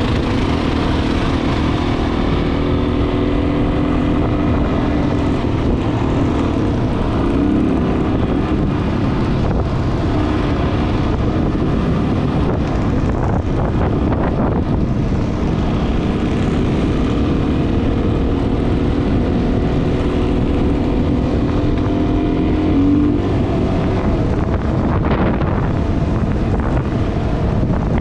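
Dual-sport motorcycle engine running under way, with wind buffeting the microphone. The engine note climbs and then drops off twice.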